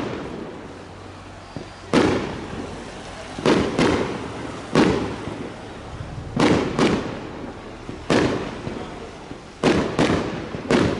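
Fireworks display: aerial shells bursting in a series of sharp bangs, about ten in eleven seconds, some in quick pairs and triples, each echoing away in a low rumble.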